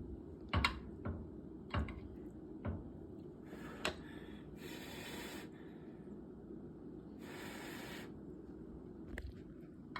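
Kitchen handling sounds: a few light knocks of utensils or dishes in the first four seconds, and three short breathy hisses, the longest about a second, over a low steady background hum.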